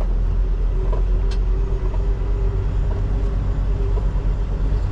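Semi truck's diesel engine running at low speed, a steady low rumble with a constant hum over it, and a faint click a little after a second in.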